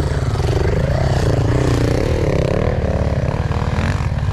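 Enduro dirt bike engine running under throttle, its pitch rising and falling again and again as the rider works the throttle.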